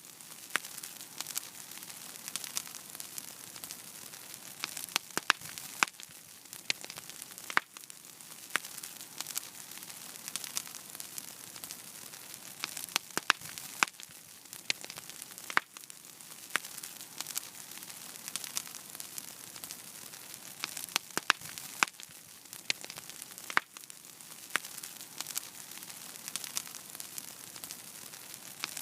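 Fire crackling in a fireplace: a steady hiss with frequent sharp pops and snaps. The pattern repeats about every eight seconds, as a looped recording does.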